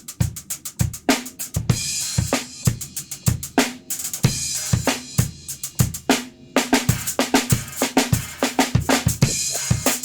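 Acoustic drum kit played fast and busy: kick drum, snare hits and crashing cymbals in quick succession, with a brief pause about six and a half seconds in.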